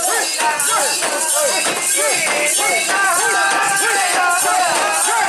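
A crowd of mikoshi bearers chanting and calling in unison, many voices overlapping in rising and falling calls, over a steady metallic jingling and rattling.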